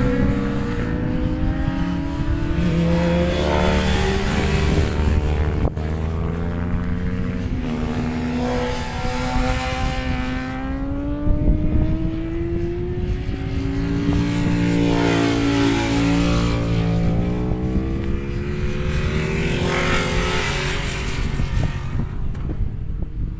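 Racing motorcycles going round the circuit, their engines rising and falling in pitch again and again as they rev and change gear, with more than one bike heard at once at times.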